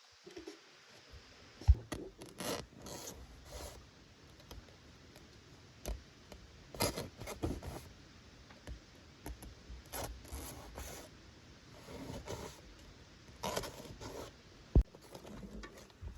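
Irregular short scraping and rubbing strokes, with a sharp knock about two seconds in and another near the end.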